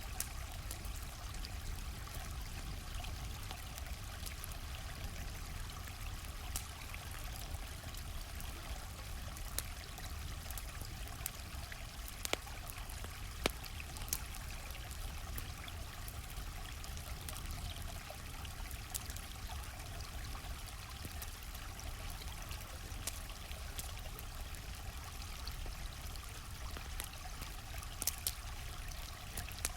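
Stream flowing steadily, mixed with a campfire crackling: scattered sharp pops over the water's even rush, a few of them louder.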